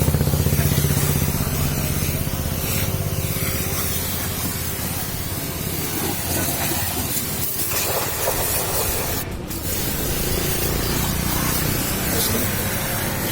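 Water spraying with a steady hiss, as when a vehicle is being washed, over a low engine hum that fades during the first couple of seconds. The spray drops out briefly about nine seconds in.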